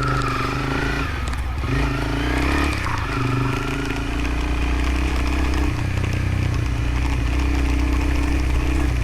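Motorcycle engine running steadily, its pitch shifting up and down a few times with throttle and gear changes, over a haze of wind and road noise.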